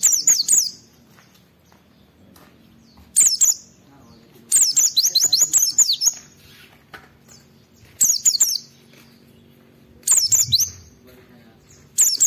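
A white-eye (pleci) singing loud phrases of rapid, high, falling twittering notes, one phrase every second or two with short silent gaps between them.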